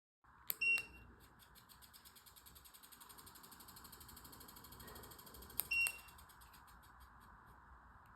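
Cordless folding fan beeping twice in answer to remote-control button presses, each beep led by a sharp click, about five seconds apart. Between the beeps the fan runs with a fast, even, rhythmic whir that dies away about a second after the second beep.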